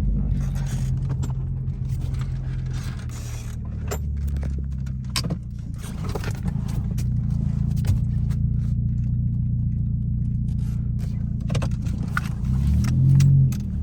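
Exhaust of a straight-piped 2016 Ford Focus SE, with muffler and resonator deleted, droning low and steady while the car runs; its pitch shifts a few times and swells louder briefly near the end. Light jangling and clicks sound over it.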